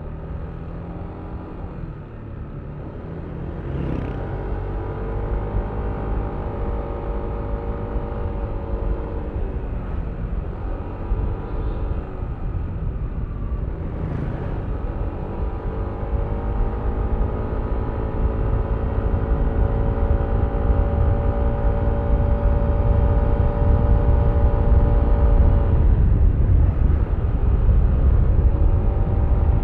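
Yamaha Aerox V3 scooter's single-cylinder engine pulling under throttle on the move, its pitch gliding up and holding, with brief throttle dips about four and fourteen seconds in. A low wind rumble on the microphone grows louder as the ride speeds up near the end.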